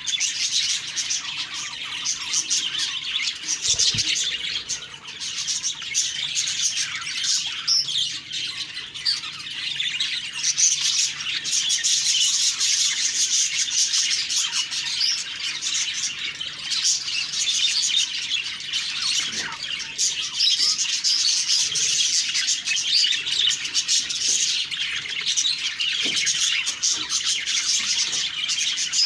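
Budgerigars chattering and warbling continuously, a dense run of high chirps and squawks with no break.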